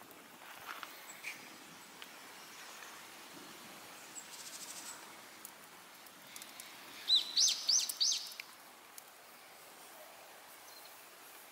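A bird calling outdoors: a quick run of four or five high chirps about seven seconds in, over a faint steady outdoor background. A brief rapid rattle comes a little earlier.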